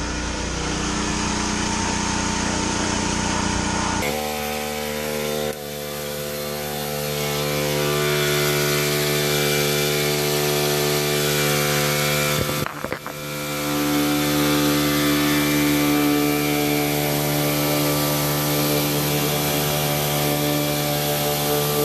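A small motor or engine running steadily, a hum of several even tones. The sound changes abruptly about four seconds in and dips briefly about thirteen seconds in.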